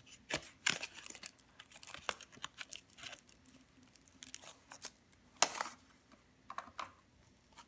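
Packaging of a boxed die-cast toy car being opened by hand: the outer plastic protector case and cardboard box crinkling, rustling and clicking in short irregular bursts, the loudest rustle about five and a half seconds in.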